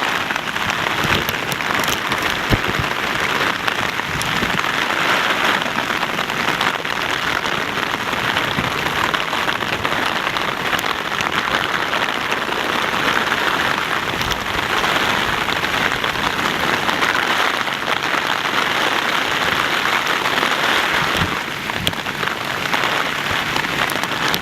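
Steady heavy rain falling and splashing, with scattered sharper drop ticks.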